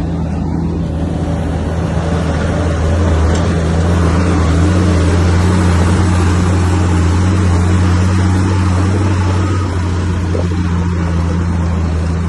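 Komatsu bulldozer's diesel engine running under load with a deep, steady drone, swelling louder for several seconds in the middle.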